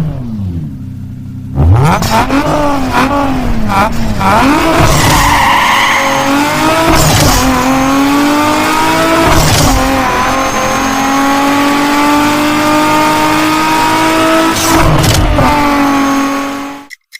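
Toyota car engine revving in quick blips, then pulling hard under load with a slowly rising pitch, broken by a few sharp cracks. It cuts off suddenly near the end.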